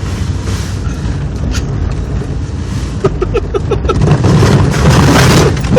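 A 1989 Honda Civic on snow chains driving through deep snow: its four-cylinder engine runs under load with a steady low rumble. From about three seconds in it grows louder and rougher as snow sprays and scrapes against the car.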